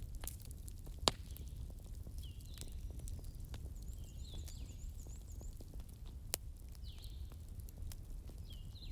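Campfire burning with a low steady rumble and irregular crackles, with two sharp pops, about a second in and past six seconds. Repeated short chirps sound in the background.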